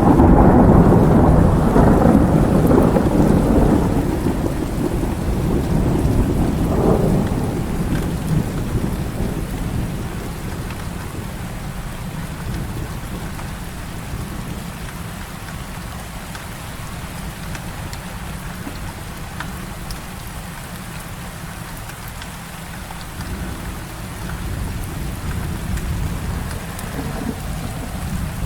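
Heavy rain falling steadily, with a clap of thunder breaking in at the start and rumbling away over about ten seconds. A second, fainter roll of thunder comes near the end.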